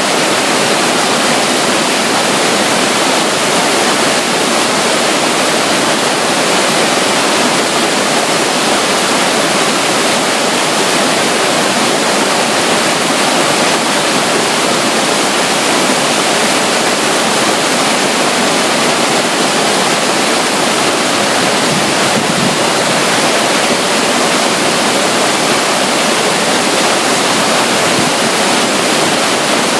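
Steady, even rush of running water: a small trickling flow at the side of a river, with the rush of a nearby waterfall.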